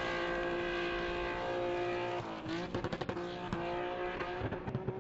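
Performance car engine held at high revs at a steady pitch. About two seconds in the pitch dips, and the sound breaks into rapid stuttering pulses.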